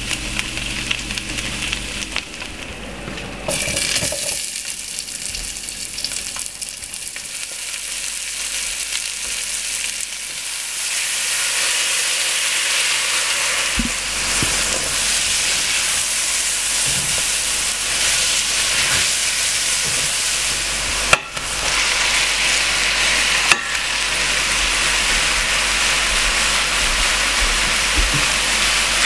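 Mushrooms and onions sizzling in a pot while being stirred with a spatula, a steady sizzle that gets louder about ten seconds in. Two brief sharp clicks come in the second half.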